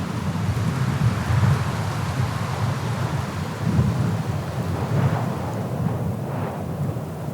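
Blizzard wind blowing in gusts, with a loud low rumble of wind buffeting the microphone and a whooshing that swells and fades.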